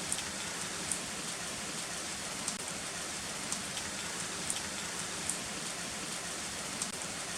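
Heavy rain falling steadily as an even hiss, with louder single drops ticking close by about once a second.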